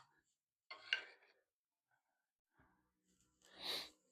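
One more stroke of a hand file rasping on metal about a second in, then quiet with faint handling noises, and a breathy exhale near the end.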